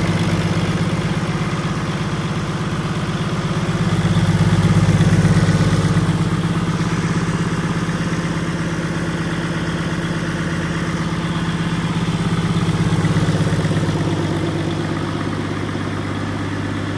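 PACCAR MX-13 12.9-litre inline-six diesel engine idling steadily, growing louder for a couple of seconds twice.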